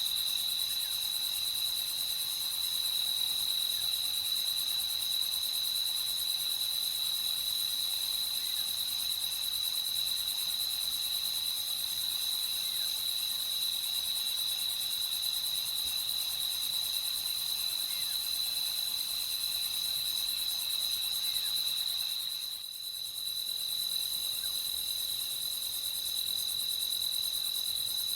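Crickets trilling in a continuous, steady, high-pitched night chorus, dipping briefly about three-quarters of the way through.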